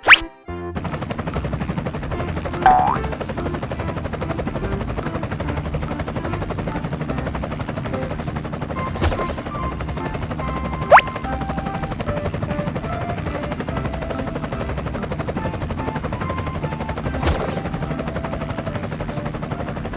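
A steady, fast mechanical rattle, like a helicopter's rotor, starting just under a second in. Over it come a short squeak near three seconds and a sharp rising chirp about eleven seconds in.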